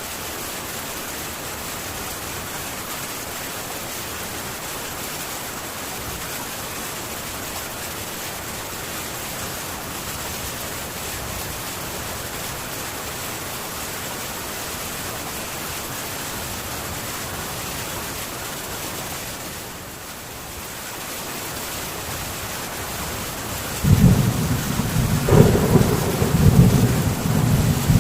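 Heavy rain drumming on a metal tin roof as a steady hiss. Near the end a loud, deep, rolling rumble of thunder sets in suddenly and goes on over the rain.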